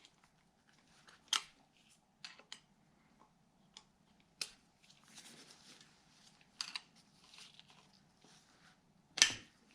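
A metal hand tool clicking and scraping against a valve lifter in the lifter bore of a Cadillac 331 V8 engine block, as a stuck lifter is worked loose: scattered sharp clicks, the loudest near the end, with a stretch of light scraping in the middle.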